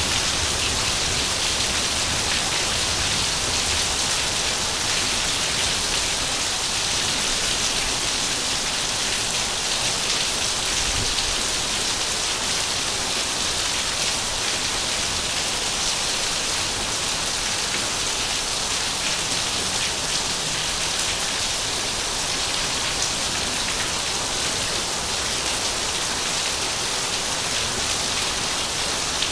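Heavy rain falling steadily, a dense even hiss of drops on surfaces with no thunder or breaks.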